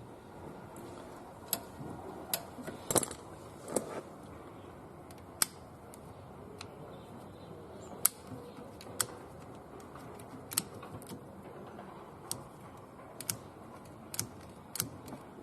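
Irregular sharp clicks and taps of hand tools and plastic and metal parts as a car's ignition lock cylinder housing is being taken apart, with a small cluster of louder knocks about three to four seconds in.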